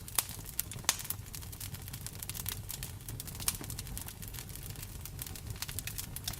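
Wood fire in a fireplace crackling, with quick irregular pops and snaps over a steady low rumble; a few pops stand out louder, shortly after the start, about a second in and around the middle.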